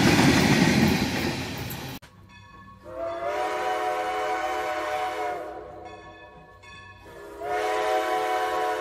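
Freight train wagons rumbling past on the rails, cut off abruptly about two seconds in. Then come two long multi-tone train horn blasts, each about two and a half seconds long and steady in pitch after a slight rise at the start.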